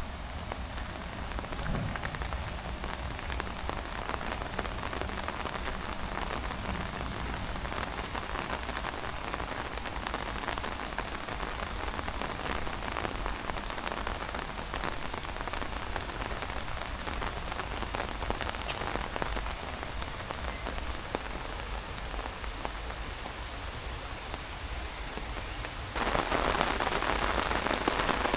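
Heavy rain pouring down, a dense steady patter of drops. It gets abruptly louder about 26 seconds in.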